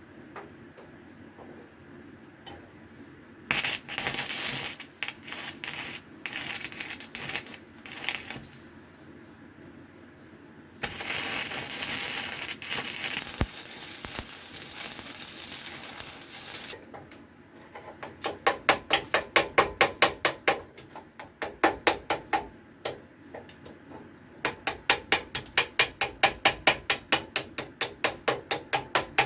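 Stick arc welding on a cast-iron vice body: the arc crackles in short spells, then in a steady run of about six seconds. Then a hammer taps on the metal in quick runs of sharp metallic knocks, several a second, typical of chipping slag off the fresh weld.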